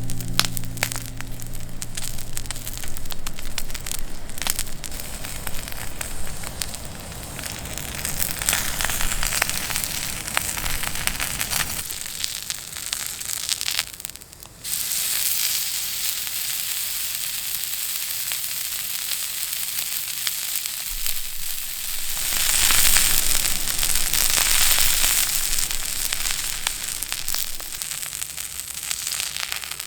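Meat sizzling on a thick iron griddle over a wood campfire, with the fire crackling. About halfway through, the sound breaks off and returns as a steadier sizzle that swells louder later on.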